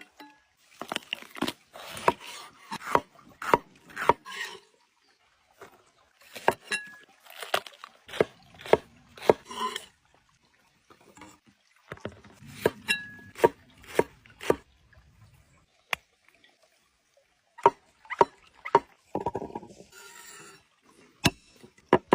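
Knife chopping food on a wooden cutting board: clusters of sharp knocks with short pauses between them.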